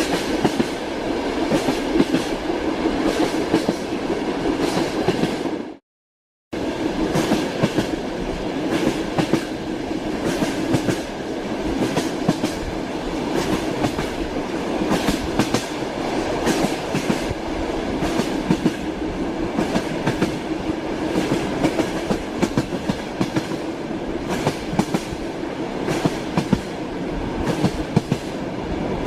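Train wheels clattering over the rail joints: a steady rolling rumble with a run of sharp clicks throughout. The sound drops out to complete silence for about half a second around six seconds in.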